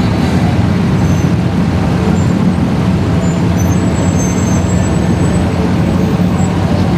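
A loud vehicle engine running steadily.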